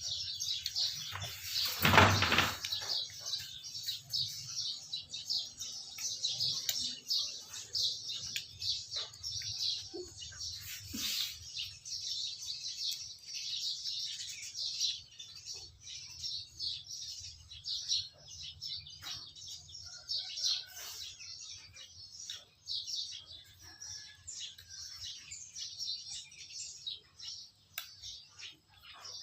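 Many small birds chirping continuously in quick, high twitters. A brief loud noisy burst cuts across them about two seconds in.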